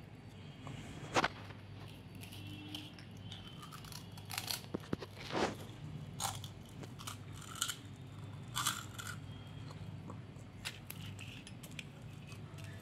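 A baby biting and chewing crisp papad: irregular crunches and crackles, the loudest about a second in and several more between four and nine seconds in.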